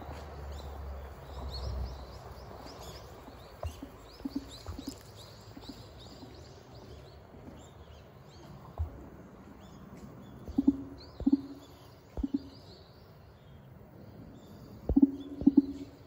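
Small birds chirping in the background, many quick high-pitched chirps. A few short, low knocks stand out as the loudest sounds, three about two-thirds of the way in and a pair near the end.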